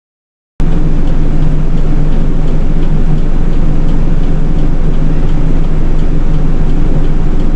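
City bus engine running with a steady low hum, cutting in abruptly about half a second in.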